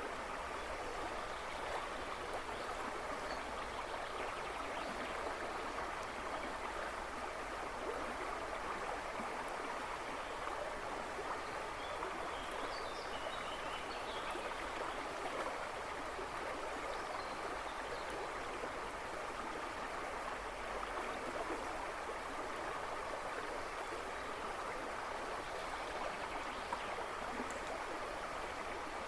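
A river rushing and babbling in a steady, even wash of water noise, with a few faint bird chirps about halfway through.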